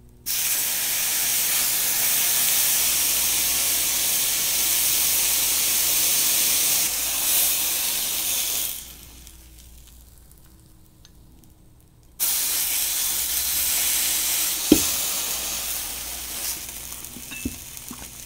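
Soy-sauce-coated kirimochi sizzling in a hot nonstick frying pan, the sauce hissing as it cooks onto the rice cake. The sizzling stops for about three seconds near the middle, then starts again and slowly fades, with one light tap partway through.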